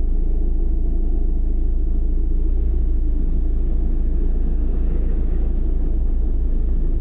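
A car driving at a steady pace: a constant low rumble of engine and road noise.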